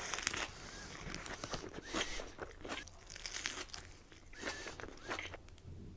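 Close-miked chewing of a lettuce-wrapped burger: crisp, wet crunches of lettuce and bun at irregular moments, several times over.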